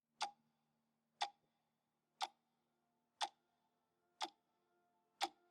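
Sharp, even ticks exactly once a second, six in all, each with a short ring, over faint held background tones.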